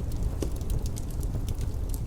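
Wood fire crackling in a fireplace: irregular small pops, with one louder pop about half a second in, over a steady low rumble of wind.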